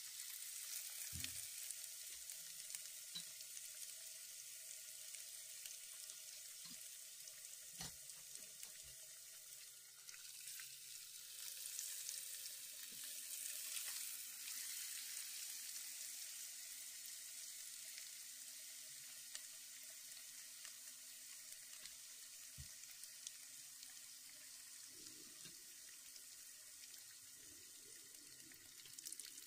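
Boiled eggs frying in spiced oil in a nonstick wok: a soft, steady sizzle, with a few faint knocks.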